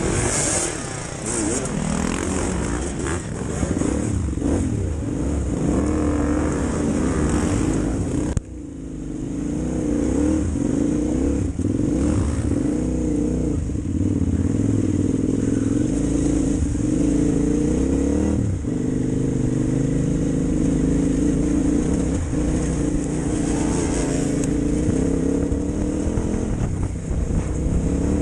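KTM 950 motorcycle's V-twin engine running under the rider's throttle, the engine note rising and falling as it is ridden. About eight seconds in, the sound breaks off sharply and then picks up again.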